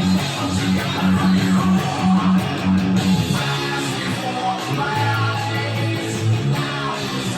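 Gibson SG Standard electric guitar with 57 Classic humbucking pickups playing a riff of rapidly repeated low notes. The riff moves down to a lower note about three and a half seconds in.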